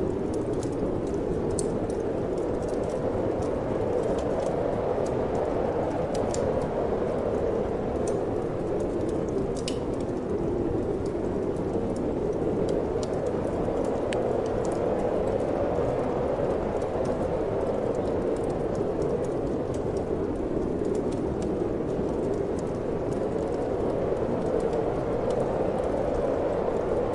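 Steady wind that swells and eases slowly, over the irregular sharp crackles of a wood fire burning in a fireplace.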